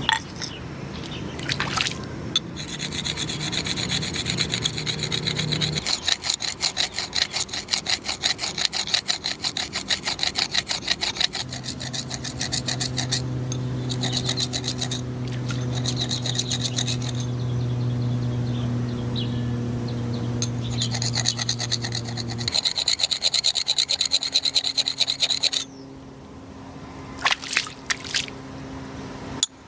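Rapid, rhythmic scraping strokes on wood, as in hand-working timber, in long runs that stop and start again. A steady low hum runs beneath them for part of the time.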